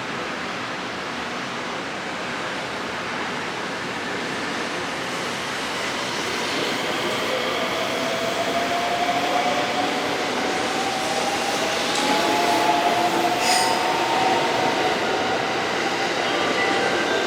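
683 series electric express train pulling out and gathering speed, the rumble of its wheels on the rails growing louder. A faint whine rises slowly in pitch from about a third of the way in, and there is a sharp metallic click about three-quarters through.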